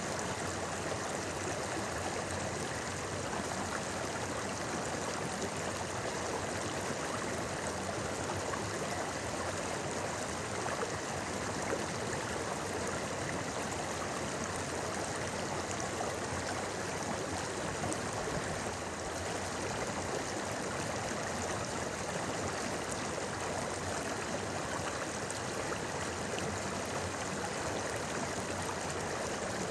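River water babbling, a steady flowing murmur with no breaks.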